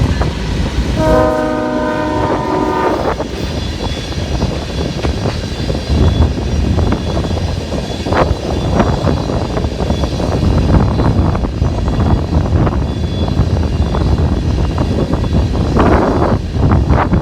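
Freight train locomotive horn sounding a multi-note chord for about two seconds near the start, then the train rolling past with a heavy rumble and a steady clatter of wheels over the rails.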